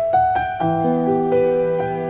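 Background piano music: gentle notes struck one after another and left to ring, building into soft chords.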